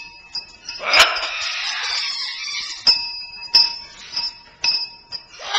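Small bell, likely a parrot's cage bell toy, knocked several times: sharp clinks about a second apart, each leaving a steady ringing tone. About a second in there is a longer rough, rasping noise.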